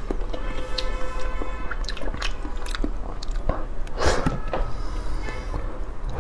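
Close-up eating sounds: a person chewing soft rabbit-shaped jelly, with small wet mouth clicks throughout and a louder wet bite into the jelly about four seconds in.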